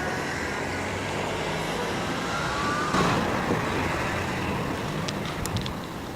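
Street traffic: cars running past on the road, loudest briefly about three seconds in, with a few faint ticks near the end.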